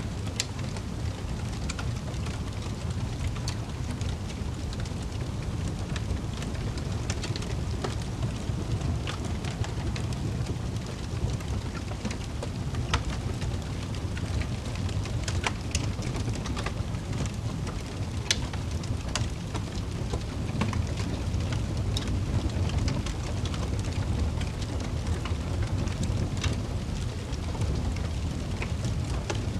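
Wood fire in a fireplace crackling: a steady low roar of flames with scattered sharp pops and snaps, several a second at irregular times.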